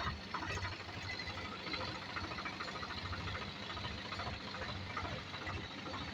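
Diesel water-pump engine running steadily with an even, rapid low beat.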